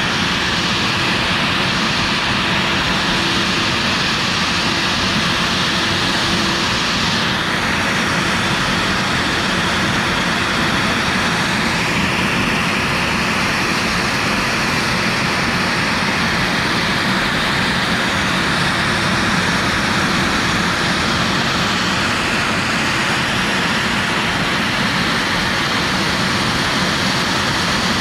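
CNC router spindle running and carving PVC with a 45° V-bit: a steady, loud machine noise whose upper tone shifts a few times as the cut changes.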